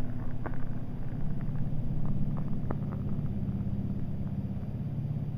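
A low, steady motor hum with a quick pulse, with scattered sharp clicks over it.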